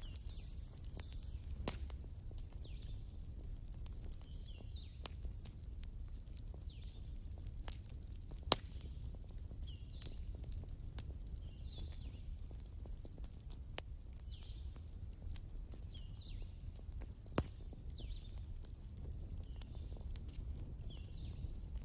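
Wood fire crackling over a low steady rumble, with scattered sharp pops, a few louder than the rest. Short high chirps repeat every second or two.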